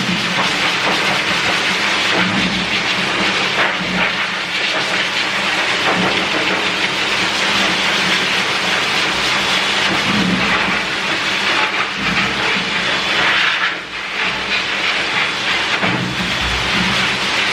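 Pet blower dryer running: a loud, steady rush of air with an underlying motor hum, dipping briefly near the end as the airflow shifts.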